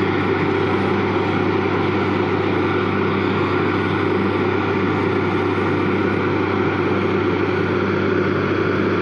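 Borewell drilling rig running: a loud, steady engine drone with a low hum that does not change.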